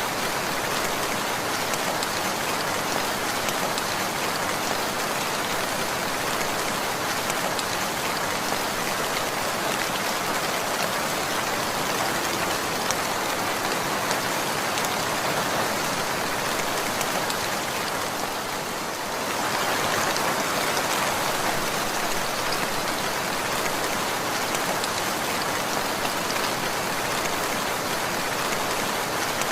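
Steady rain falling, a dense even patter of raindrops, easing slightly for a moment about two-thirds of the way through before picking up again.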